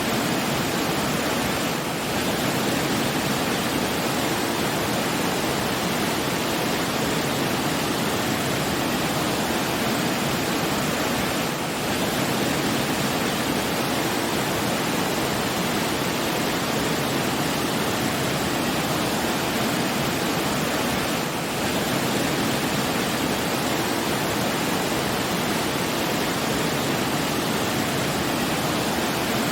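Steady rushing water, an even roar with no other sounds, dipping slightly in level about every ten seconds.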